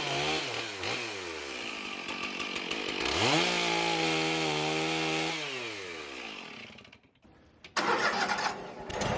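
Chainsaw revving up hard twice, each time holding a high, steady pitch for a couple of seconds before dropping back to idle. A short, loud, noisy sound comes near the end.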